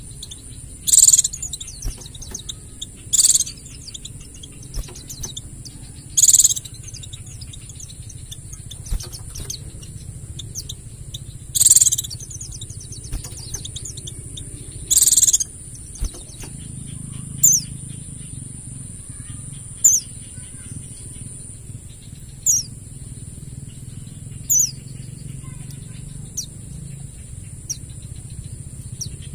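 White-eye (pleci) calling: loud, sharp bursts of high chirps every few seconds, then from about halfway short falling whistled notes roughly every two and a half seconds, over a steady high-pitched hiss.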